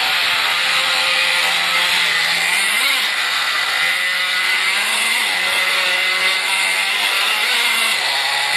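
Nitro-powered Schumacher RC car's small two-stroke glow engine running with a high buzz, its pitch rising briefly three times as it is throttled up.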